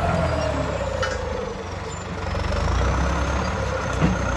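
Tractor's diesel engine running steadily with a low rumble. The level dips about halfway through and picks up again.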